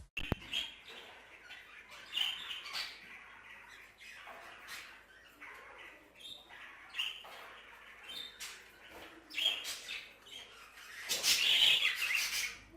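Budgerigars chirping and squawking with scattered short calls. Near the end comes a louder, harsher burst of chatter.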